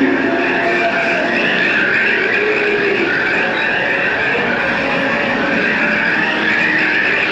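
Disneyland Railroad train's steel wheels squealing steadily against the rails, a loud, wavering high screech that runs on without a break over the rumble of the cars.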